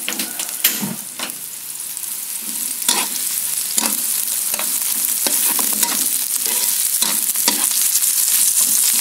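Garlic, ginger and sliced onion sizzling in hot oil while being stir-fried, with a metal spatula scraping and tapping the nonstick pan about once every second. The sizzling grows steadily louder.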